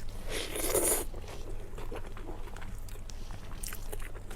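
Close-miked eating sounds: a short noisy burst of mouth sound just under a second in, then faint scattered chewing clicks.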